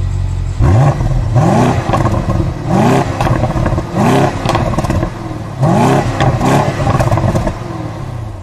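A car engine revved in about six quick blips, each a rising pitch, over a steady engine running underneath.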